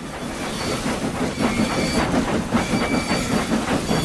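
Steam locomotive sound effect: fast chuffing with hissing steam, as of engines working hard against a heavy load.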